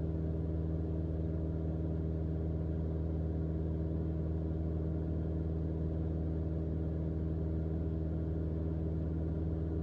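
Cabin drone of a Mooney M20J's Lycoming four-cylinder engine and propeller running at a steady cruise setting at 8,500 ft, a constant low hum that does not change.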